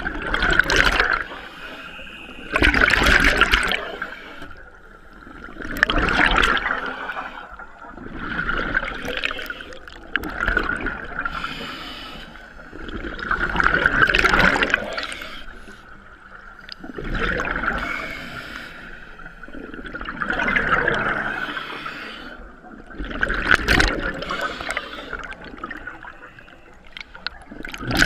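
Scuba diver breathing through a regulator underwater: the hiss of each breath and the rush of exhaled bubbles, in swells about every three to four seconds.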